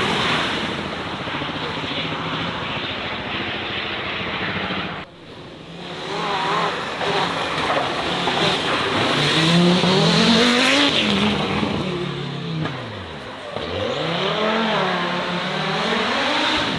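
Racing car engine running, dropping out briefly about five seconds in, then revving up and down repeatedly in rising and falling sweeps.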